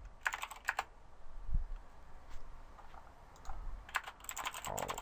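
Computer keyboard typing: quick keystroke clicks in short flurries, one in the first second and another near the end, with only scattered keys between.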